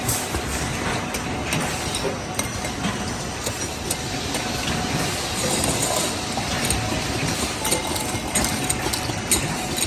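Factory machinery running steadily, with occasional sharp clinks and clicks of metal parts.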